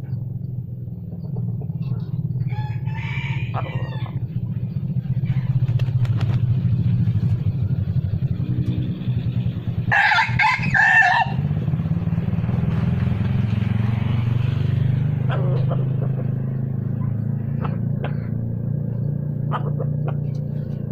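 Red junglefowl cock crowing, the loudest call about ten seconds in, with a fainter call about three seconds in, over a steady low hum.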